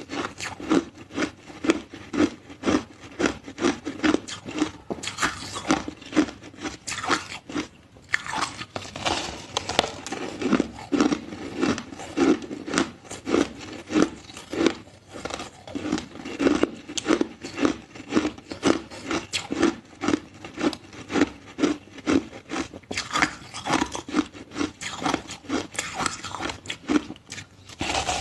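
Ice being bitten and chewed close to the microphone: a steady run of sharp crunches, about two a second, with a brief pause about eight seconds in.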